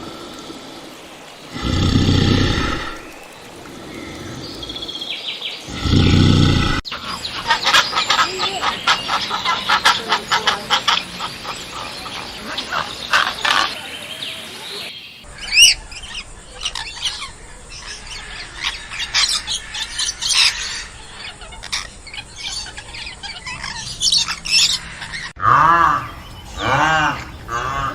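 A run of animal calls. It opens with three loud, deep calls, followed by many seconds of busy, high-pitched bird chirping. Near the end come repeated short calls that fall in pitch.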